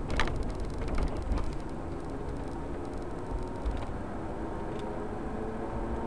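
Car driving, heard from inside the cabin: a steady low rumble of engine and road noise, with a few light clicks in the first second or so.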